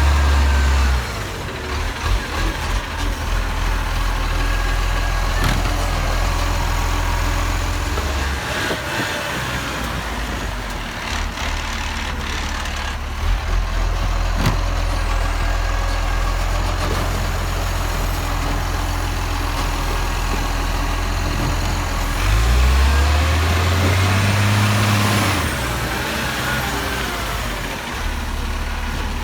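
Garbage truck's diesel engine running steadily, with a few faint knocks, and the engine speeding up for a few seconds about three quarters of the way through before settling back.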